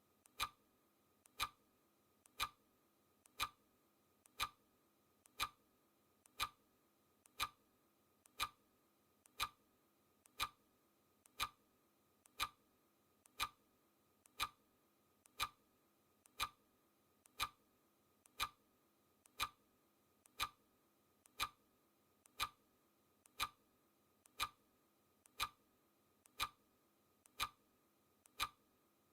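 Clock ticking sound effect: one sharp tick every second at an even pace, each with a fainter click just before it.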